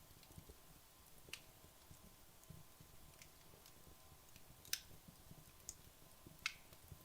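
Wood logs burning down in a fireplace, giving a few sparse, sharp crackles and pops over a faint low flutter of the flames. The loudest pop comes a little before five seconds in, and another sharp one about a second and a half later.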